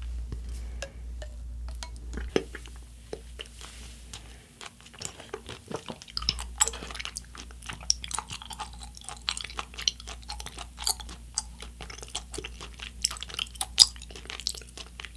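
Close-miked chewing: a run of small wet mouth clicks and crunches, sparse for a moment a few seconds in, then thicker from about six seconds on.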